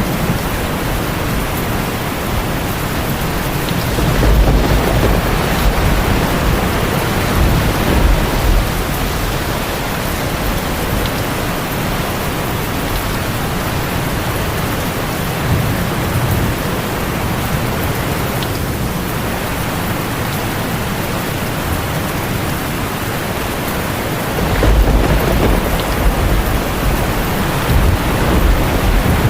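Steady, even rain, with deep low rumbles swelling about four seconds in and again near the end.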